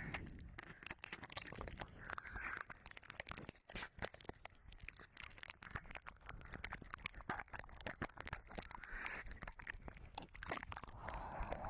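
Ear-licking mouth sounds into a 3Dio binaural microphone: a dense, irregular stream of wet tongue and lip clicks and smacks, with a few soft breathy patches.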